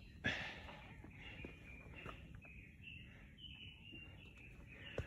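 Woodland birds calling, a quick run of short high chirps and whistles, with a single sharp footfall on the dirt trail just after the start and another near the end.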